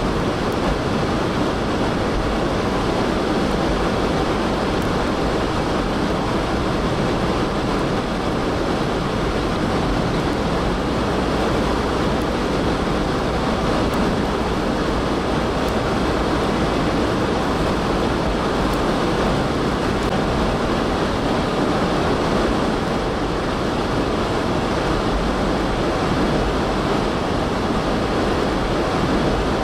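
Steady rushing noise of strong blizzard wind mixed with vehicle road noise, unbroken throughout.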